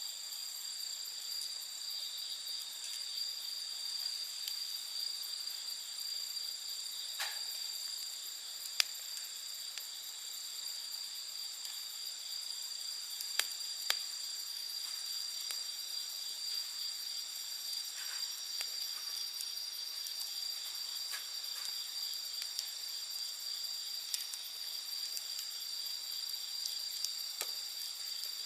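A chorus of night insects such as crickets, singing in steady high-pitched continuous tones, with a few sharp pops from a wood campfire crackling now and then.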